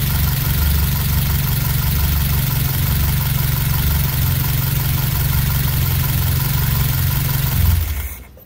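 1979 Fiat 124 Spider's twin-cam four-cylinder engine idling steadily on its newly fitted carburetor, then stopping near the end.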